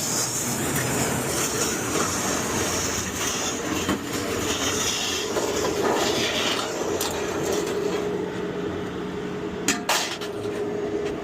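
Truck driving with its load of scrap metal rattling and clanking in the bed, with a couple of sharp knocks near the end.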